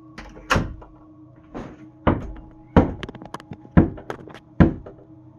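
Heavy knocks or thumps on a closet door, about six in a row at an uneven pace, each with a short ring after it.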